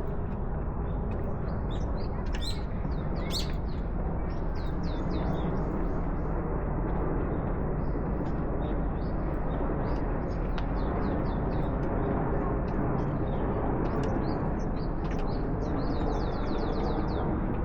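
Small birds chirping in quick series of short high notes, with a fast run of about a dozen notes near the end, over a steady low background rumble.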